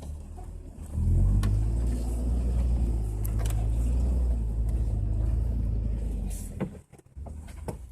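Jeep engine pulling under throttle as it crawls over rocks, heard from inside the cab. It gets louder about a second in, holds steady, then eases off sharply near the end, with a few knocks around the drop.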